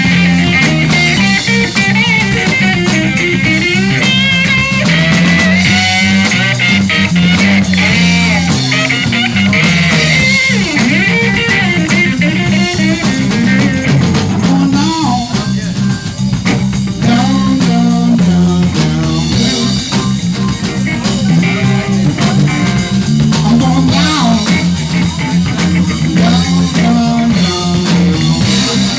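Live blues band playing: a lead guitar solos with bent, wavering notes over a walking bass line and drum kit, then the lead moves lower in the second half.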